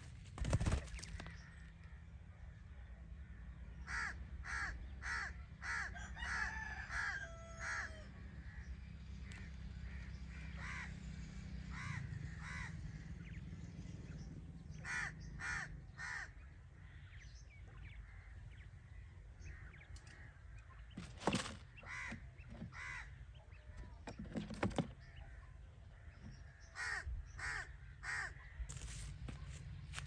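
A bird cawing in short runs of three or four calls, several times over, above a steady low rumble. A single knock sounds about half a second in.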